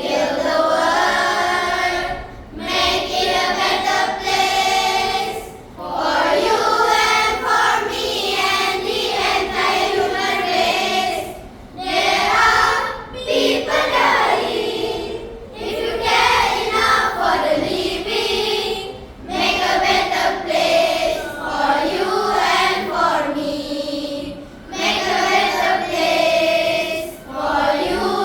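A group of children singing together as a choir, in phrases of a few seconds with short pauses between them.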